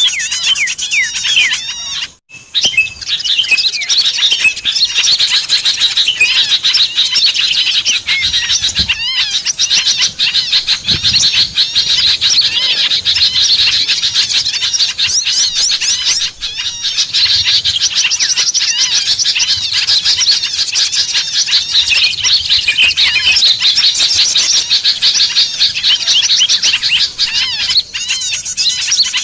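Many small songbirds twittering and chirping rapidly and without pause, with a brief break about two seconds in.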